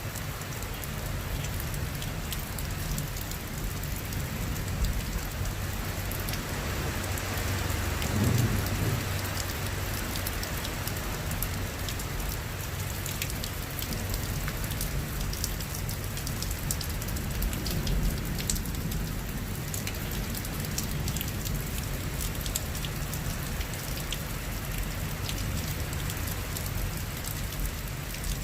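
Rain falling steadily in a thunderstorm, with many scattered drop ticks. A low rumble swells about eight seconds in, and a weaker one comes around eighteen seconds.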